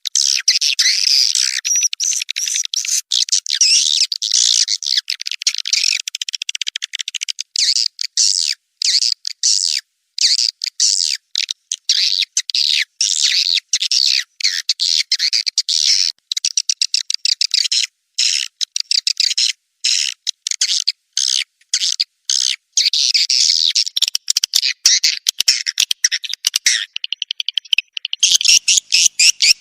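Swiftlet lure recording: a dense, rapid, high-pitched chirping and twittering of swiftlets, broken by short gaps, with no low end at all. It is played to call swiftlets into a nesting house.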